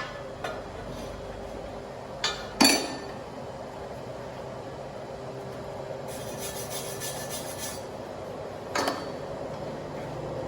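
A few sharp metallic clinks over a steady low hum: two close together about two and a half seconds in, the second and loudest ringing briefly, a faint rattle a few seconds later, and one more clink near the end.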